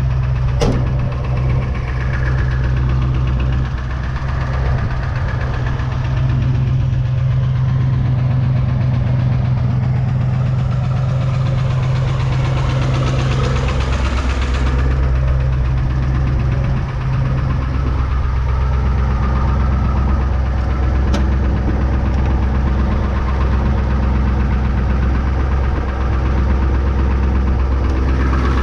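1993 Ford F-350's 7.3 IDI diesel V8 idling steadily; about halfway through, its tone drops lower.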